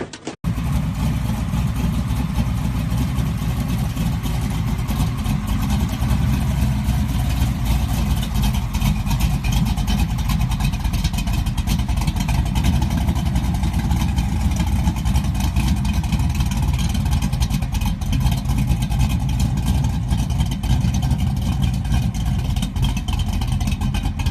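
Truck engine running steadily with a heavy low rumble, starting abruptly about half a second in.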